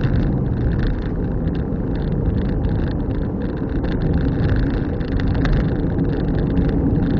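A car being driven at a steady pace: continuous engine and tyre noise, with many small ticks and rattles over the top.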